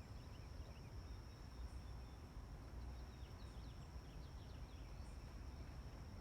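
Faint outdoor ambience: a steady, high, unbroken insect trill, with short faint bird chirps scattered through it over a low rumble.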